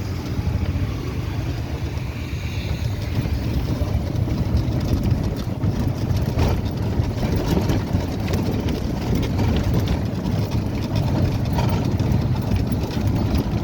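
Steady low rumble of a moving vehicle heard from inside, with no sharp events apart from a faint click about six and a half seconds in.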